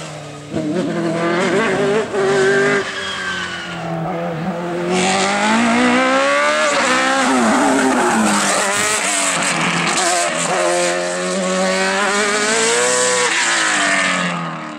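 Race car engines revving hard, the pitch climbing and dropping repeatedly through gear changes, over a steady lower engine note. Tyre squeal joins from about five seconds in.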